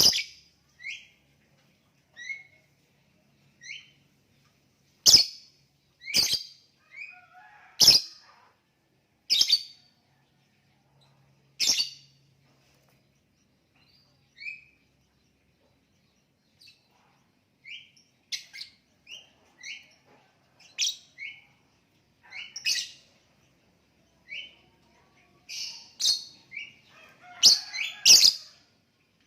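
Lovebird calling: short, sharp, shrill chirps at irregular intervals, some much louder than others, coming closer together near the end.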